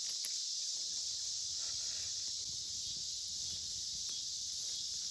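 Steady chorus of insects, an unbroken high buzz, with a few faint taps and rustles.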